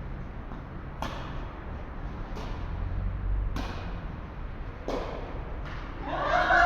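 Tennis rally: a ball struck back and forth with rackets, making five sharp pops about every second or so, with a short ring after each in a large hall. A person's voice calls out near the end.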